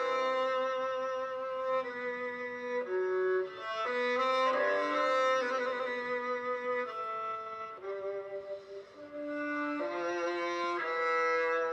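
Nokia 3110 Classic polyphonic ringtone playing: a synthesized melody of held notes with chords beneath, moving in steps of about a second each.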